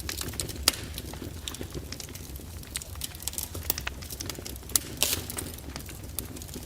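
Wood fire crackling: irregular sharp pops and snaps over a steady low rumble, with a louder pop under a second in and a cluster of louder ones about five seconds in.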